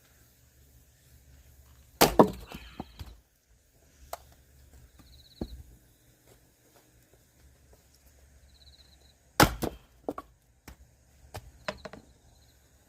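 Firewood being split by hand with an axe: two heavy strikes into the wood about seven seconds apart, each followed by a short clatter of split pieces, with a few lighter knocks between them.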